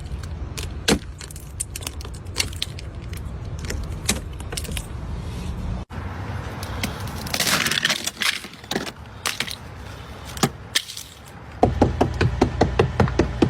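Ice cracking and being chipped: scattered sharp cracks and clinks over the low hum of an idling car engine, then a fast steady run of chipping strikes, about four or five a second, near the end.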